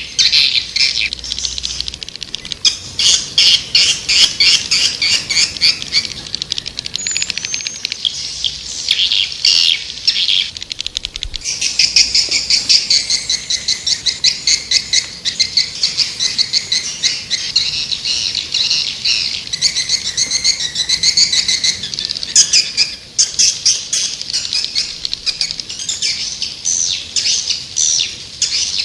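Swiftlets twittering: a dense, unbroken stream of rapid high chirps and trills. This is a swiftlet call sound of the kind played to lure swiftlets into a nest house.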